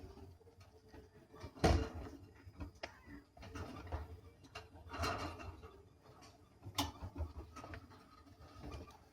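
A few scattered knocks and clicks with light rustling in between, the loudest knock about a second and a half in and another near seven seconds; no meowing.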